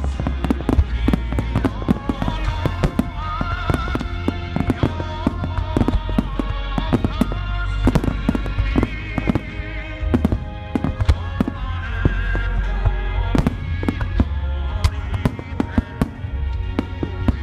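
A starmine of aerial firework shells bursting in quick succession, several bangs and crackles a second with a deep rumble beneath, while music plays throughout.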